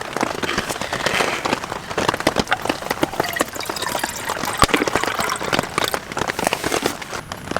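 Heavy rain drumming on a tent's fabric: a dense, irregular patter of drops.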